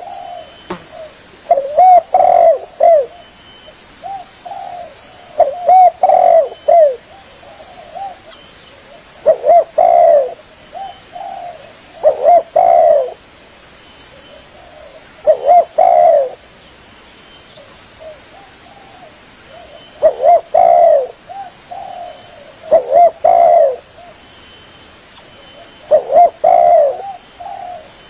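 Spotted dove cooing: a phrase of several coos, repeated about every three to four seconds, eight phrases in all.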